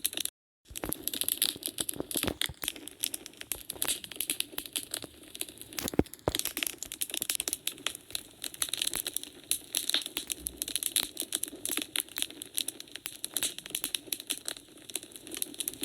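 Wood fire crackling in a fireplace: a dense, irregular run of small snaps and pops over a low hiss, with one sharper pop about six seconds in. The sound cuts out completely for about half a second just after the start.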